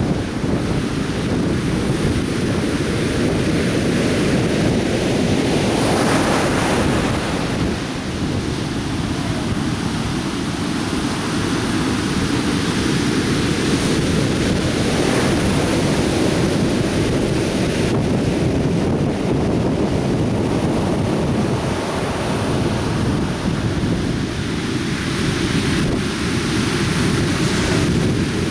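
Atlantic Ocean surf: a continuous deep rumble of breaking waves, with the wash of a breaker swelling about every eight to ten seconds, and some wind buffeting the microphone.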